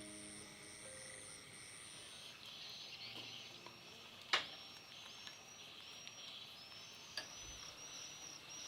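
Outdoor chorus of short, high chirps repeating about once or twice a second, over a faint hiss. A sharp click comes about four seconds in and a smaller one near seven seconds. A few last notes of background music fade out at the very start.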